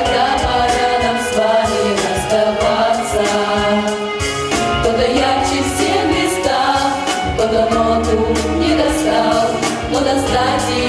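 A song: singing voices over an accompaniment with a steady beat.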